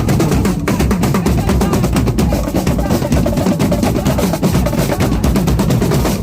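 Marching drum corps playing: rapid snare drum rolls and patterns over bass drum beats.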